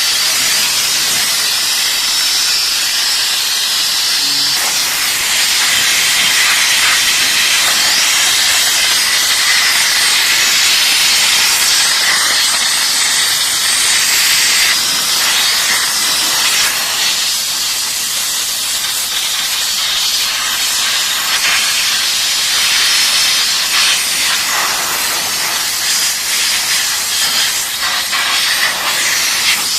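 Steam jet from an LPG-fired steam car washing machine hissing steadily and loudly, a little more unevenly in the second half.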